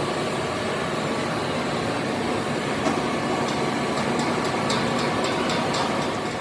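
Steady machinery noise, with about a dozen light, sharp metallic clicks in the second half.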